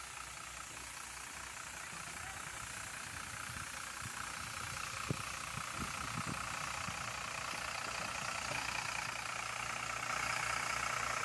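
A heavy vehicle's engine running steadily with an even low pulse, growing gradually louder, with a single sharp click about five seconds in.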